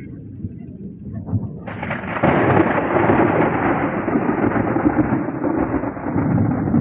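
Thunder: a low rumble, then a sudden loud peal just under two seconds in that goes on rolling steadily.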